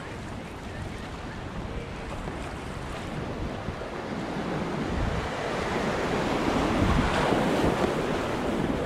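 Rushing whitewater with wind noise on the microphone, the rush growing steadily louder.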